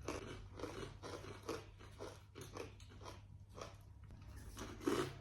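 Crunching and chewing on a crisp fortune cookie: a run of irregular, dry crunches, a few a second, close to the microphone.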